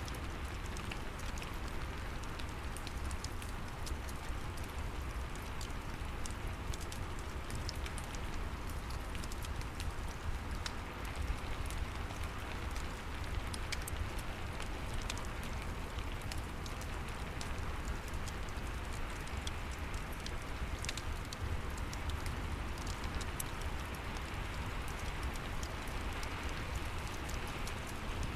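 Steady rain mixed with a crackling fireplace: an even hiss of rainfall with scattered sharp crackles and pops throughout.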